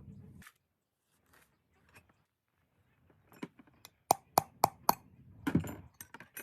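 A run of sharp knocks or taps: a few faint ones, then four loud ones in quick succession, about four a second, followed by a heavier, longer knock and a few lighter taps. A low steady hum cuts off about half a second in.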